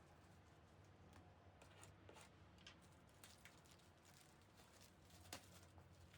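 Near silence: room tone with a faint steady low hum and a few scattered small clicks, the clearest a little over five seconds in.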